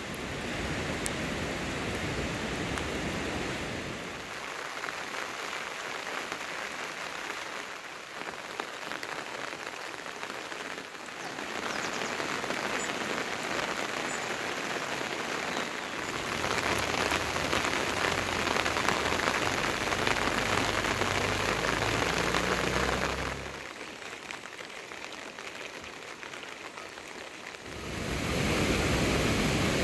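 Rain falling on surfaces, a steady hiss that drops and rises abruptly several times.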